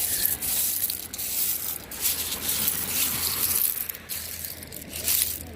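Footsteps crunching over a thick bed of loose seashells, the shells scraping and clinking underfoot in an uneven crackle.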